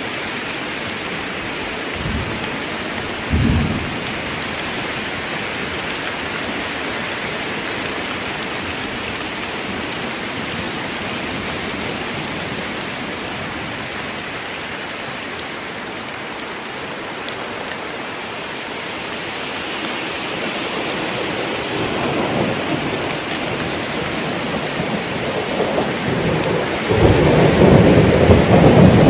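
Steady heavy rain falling in a forest, with two short low thuds of thunder a few seconds in and a rolling thunder rumble building near the end, the loudest part.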